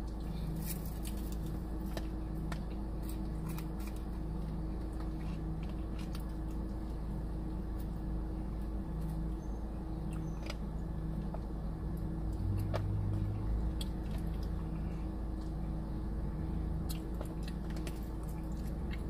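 Quiet chewing and small crunches of someone eating fried ranch chicken wings, heard as scattered faint clicks over a steady low hum.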